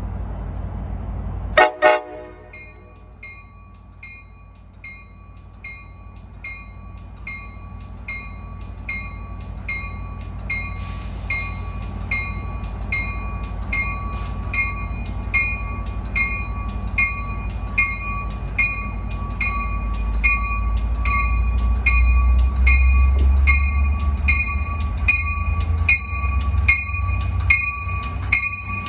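A warning bell rings steadily, about two strikes a second, as an Amtrak Capitol Corridor passenger train approaches. The train's low rumble grows louder over the last ten seconds as its cab car draws level. A brief loud burst comes about two seconds in.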